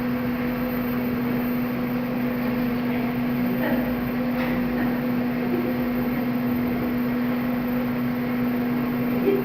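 Motorcycle engine running with a steady hum and an uneven low rumble underneath: it is misfiring even though its spark is good.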